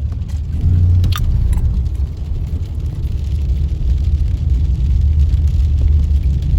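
Car cabin noise while driving: a steady low rumble from the engine and tyres on the road, with one brief sharp click about a second in.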